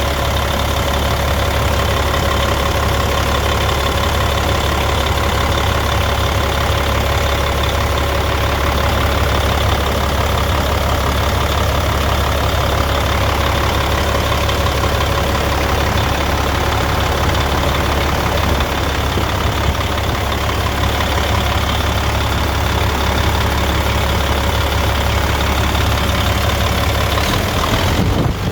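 Freightliner truck's diesel engine idling steadily on its first run after a rebuild, a deep even drone. Near the end the drone shifts.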